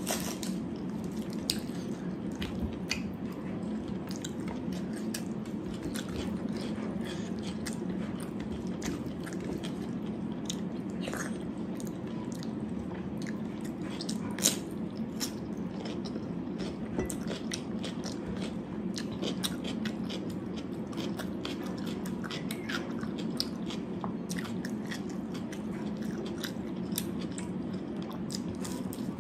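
A person eating close to the microphone: chewing and biting, with frequent small crunches and clicks, over a steady low hum.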